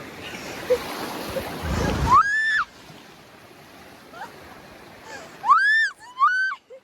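Rushing river water with a rumble on the microphone, for about two seconds, then it cuts off. A dog whines after that: three high cries, each rising then falling, the last two close together near the end.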